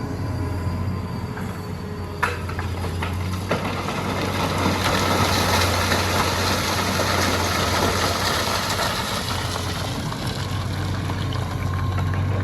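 Hitachi EX200 excavator's diesel engine running steadily with a low hum, with two sharp knocks a little after two and three seconds in and a rushing hiss that builds about halfway through.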